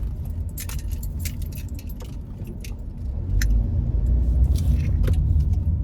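Light metallic clicking and jingling over a low rumble, the rumble growing louder about three seconds in.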